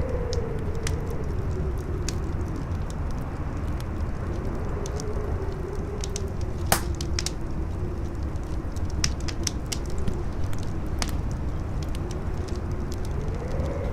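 Wind howling in a single wavering tone that slowly rises and falls over a low rumble, while a fire crackles and pops irregularly. One sharp pop, louder than the rest, comes about seven seconds in.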